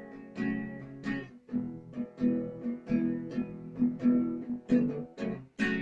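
Acoustic guitar strummed in a steady rhythm, about two to three strokes a second, its chords ringing on between strokes.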